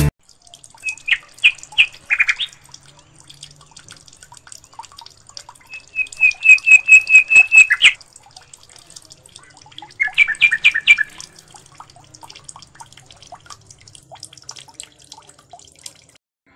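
Birds chirping: a few sharp calls, then a fast run of about ten loud repeated notes about six seconds in, and a quick burst of chirps about ten seconds in, over faint high twittering throughout.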